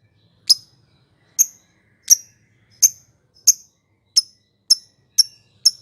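Lovebird giving a series of single, sharp, high chirps, about nine of them, coming steadily faster.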